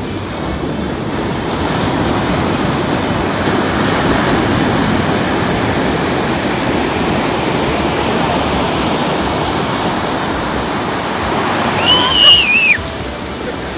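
Ocean surf washing on the beach, a steady rushing that swells a couple of seconds in. Near the end a brief, loud, high-pitched shriek cuts across it.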